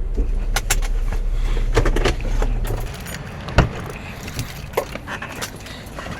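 A car engine running steadily, switched off about three seconds in, then keys jangling and clicking, with one sharp thump about half a second after the engine stops.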